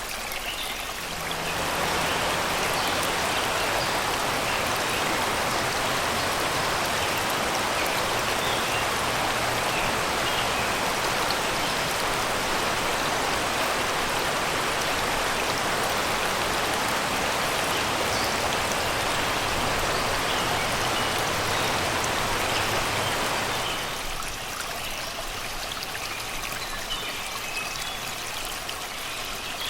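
Shallow river rushing over rocks and stones, a steady wash of water that grows louder about a second and a half in and drops back again near the end. Faint birdsong chirps sound above it, mostly near the end.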